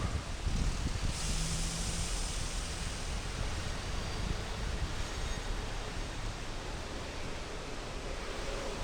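Steady outdoor ambient noise, an even wash without distinct events, with a brighter hiss for a second or so about a second in.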